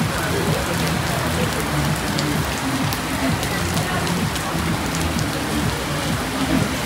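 Steady rain falling, with scattered sharp drop ticks over a constant hiss and a low rumble beneath.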